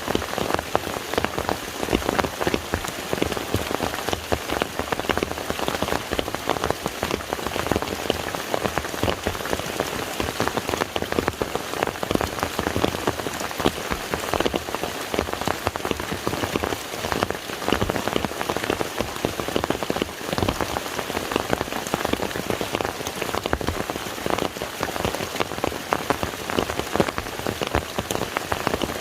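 Steady rain falling on a lake: a dense, even patter of countless drops hitting the water.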